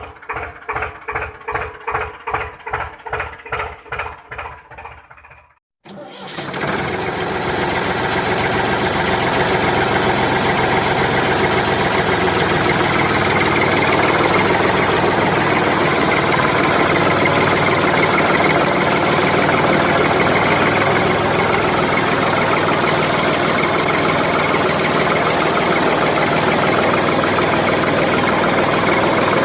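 An engine cranking in an even rhythm of about three strokes a second, cutting off after about five seconds. After a brief gap it starts up and runs steadily.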